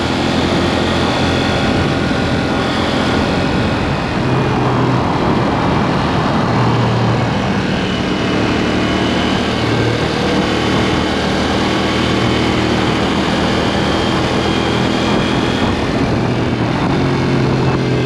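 KTM 790 Duke's parallel-twin engine running through an aftermarket SpeedPro Cobra SPX exhaust while riding, its note rising and falling several times with throttle and gear changes, over steady wind and road noise.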